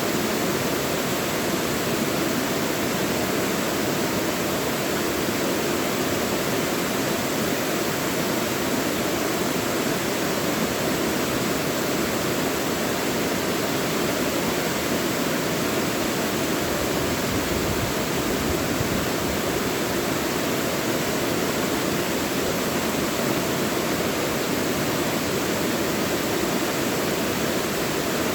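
Mountain stream rushing over rocks in a deep valley, a steady full rush of water with no breaks.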